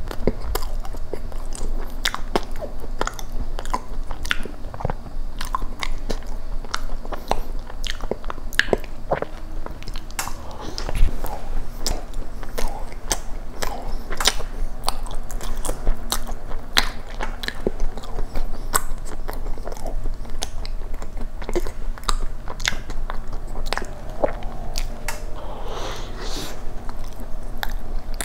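Close-miked chewing of blueberry cookie cheesecake: many quick mouth clicks and smacks, with some crunch from the cookie.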